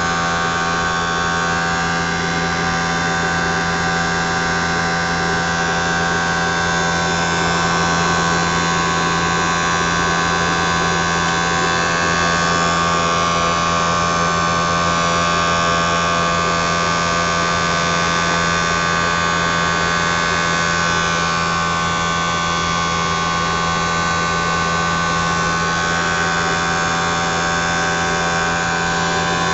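Triangle blower motor running steadily: a constant low hum with a steady higher whine over airy hiss, swelling slightly in level through the middle of the stretch.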